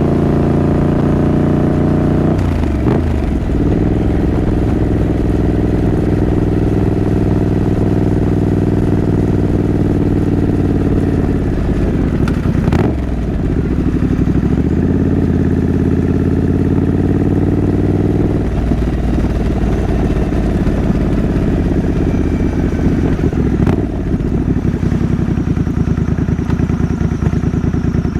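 Triumph Scrambler 900's parallel-twin engine running steadily while riding, its pitch briefly dropping and climbing again several times as it shifts gears, about two and a half, thirteen and twenty-four seconds in.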